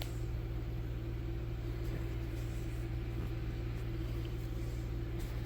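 Steady low electrical hum from the powered-up CNC router's stepper motors and drive electronics, holding one pitch with no starts or stops.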